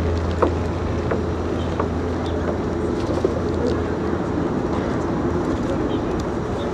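Birds calling close by, over a steady low hum that fades out about halfway through.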